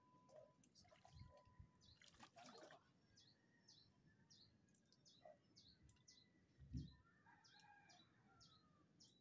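Faint, high bird chirps repeating about twice a second, with a brief burst of noise about two seconds in and a soft thump near seven seconds.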